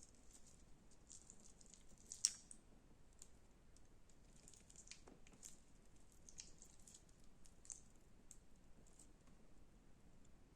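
Slime being handled, giving soft, scattered clicks and crackles, with one sharper click about two seconds in.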